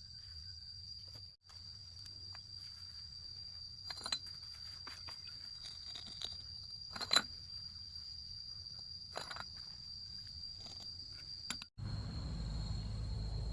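Insects, crickets or cicadas, trilling in one steady high whine, with a few sharp knocks, the loudest about halfway through. The sound cuts out briefly twice, and after the second break a low rumble joins the trilling.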